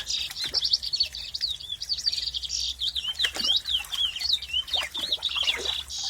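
Many small birds chirping at once: a dense chorus of short, high chirps and squeaks overlapping without a break.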